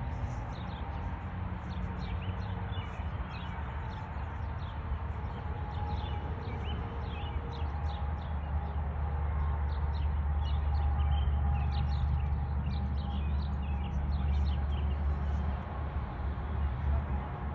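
Many birds chirping in short, scattered notes over a low steady rumble that grows louder in the middle.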